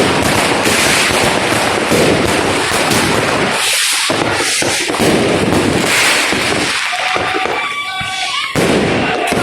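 Dense crackling of many New Year's fireworks and firecrackers going off at once. The crackle thins briefly about halfway through, and a few short whistling tones sound near the end.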